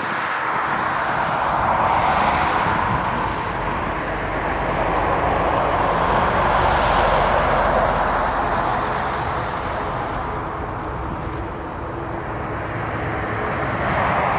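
Boeing 787-9 Dreamliner's jet engines running, a steady rushing sound that swells, fades a little and swells again.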